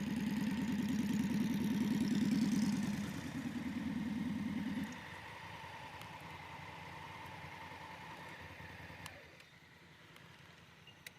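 Motorcycle engine running, dropping sharply to a much quieter level about halfway through.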